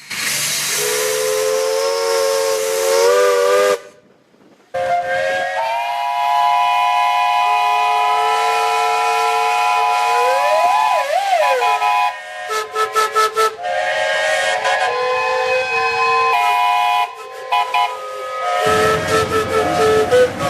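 Multi-note chime steam whistle blown in a series of blasts over a hiss of escaping steam. A blast of a few seconds is followed by a long held one whose pitch swoops up and back down partway through, then quick stuttering toots and more held blasts.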